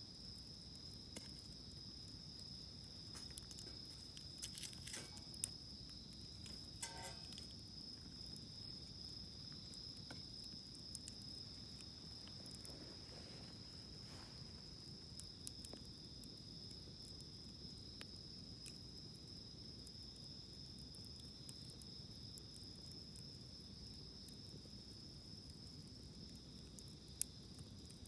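Wood campfire crackling with scattered sharp pops, over the steady high-pitched chirring of insects.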